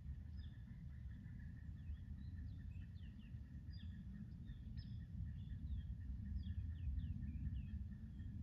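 A bird chirping in quick, short, downward-sliding calls, several a second, over a steady low rumble of outdoor background noise. The bird is going crazy, which the listener puts down to something moving in the woods in front of him.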